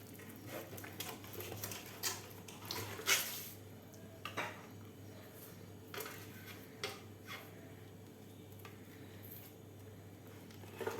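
Hands rubbing salt onto a whole raw fish, with scattered light clinks and taps of dishes and utensils, the sharpest about three seconds in.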